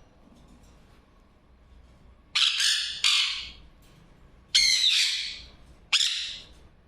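A parrot squawking four times, loud calls that start suddenly and fade over about half a second each.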